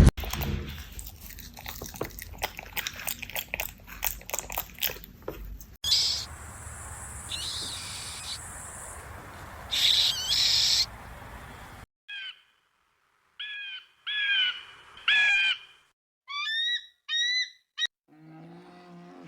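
A run of wild animal sounds: crackling rustle for the first few seconds, then bird calls, ending in groups of short, sharp, pitched calls repeated every half second or so.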